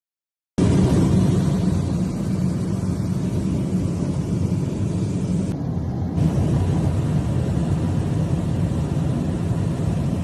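Loud, steady roar of air and engine noise inside a Boeing 737 MAX 9 airliner cabin in flight. It starts abruptly about half a second in.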